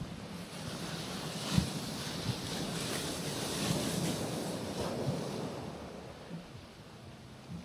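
Small sea wave breaking and washing over a rocky shoreline, rising to a peak a couple of seconds in and then draining away, with a sharp knock near the start of the wash, like water striking rock, and wind on the microphone.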